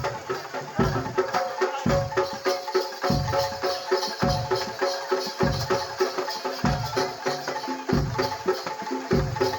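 Live kuda lumping gamelan music: pitched metal percussion ringing steadily over a deep beat that falls about once a second.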